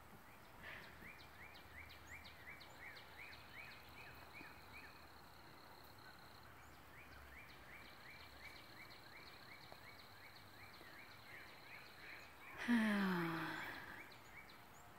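A small bird sings long runs of short downslurred chirps, about three a second, over a faint steady high tone. Near the end there is one short, low moan that falls in pitch, the loudest sound here.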